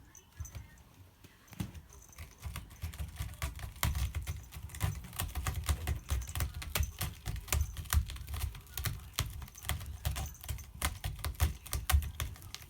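A cat sharpening its claws: a rapid, uneven run of scratching strokes with dull thumps underneath.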